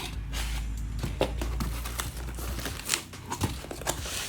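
Parcel packaging crinkling and rustling as it is handled and torn open, with irregular crackles and a few sharper tearing sounds.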